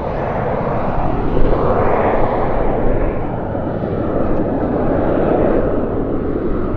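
Twin turbofan engines of a Cessna 550 Citation II business jet, a steady jet roar that rises in pitch and loudness to a peak about two seconds in, then holds.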